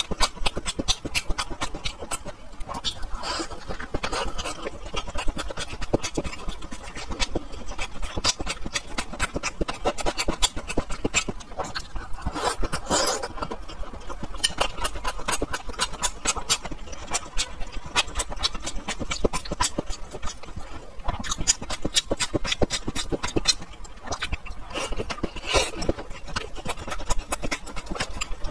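A person chewing beef steamed dumplings, with a dense run of wet mouth clicks and smacks, several a second. The chewing swells a little about 4, 13 and 25 seconds in.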